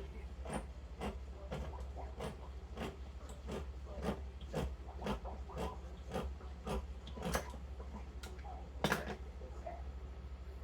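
A can of diced tomatoes being opened with a can opener: regular clicks about twice a second, over a steady low hum.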